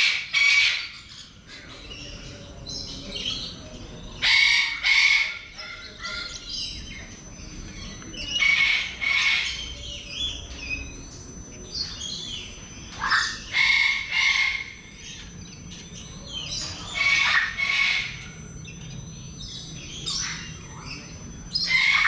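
Birds calling: loud calls in short clusters about every four to five seconds, with softer chirping in between.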